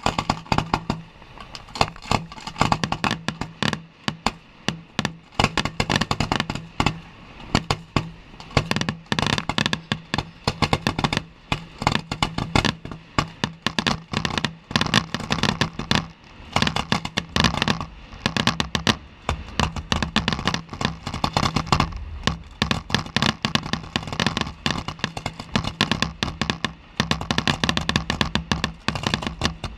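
Fireworks finale barrage: a dense, continuous run of overlapping bangs and crackles, many shots a second, starting suddenly.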